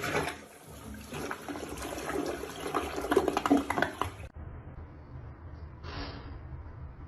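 Rushing, splashing water for about four seconds that cuts off abruptly, followed by a quieter, fainter noise.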